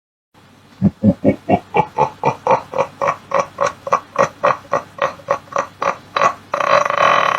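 Devilish sound-effect laugh: a steady run of 'ha' pulses, about three to four a second, starting deep and climbing in pitch. Near the end it breaks into a long held laugh.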